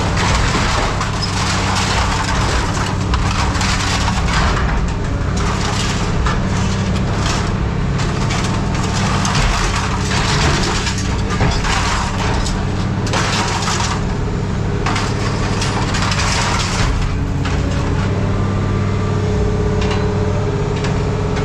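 Scrap metal crunching and clattering in irregular bursts over a steady, low engine hum.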